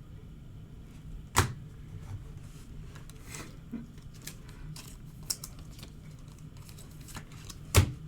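Trading cards and packaging being handled on a table: light clicks and rustles, with two sharper taps, one near the start and one near the end, over a faint steady hum.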